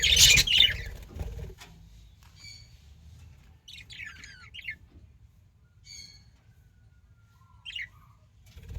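Budgerigars squawking: a loud burst of harsh calls in the first second or so, then a few short, scattered chirps.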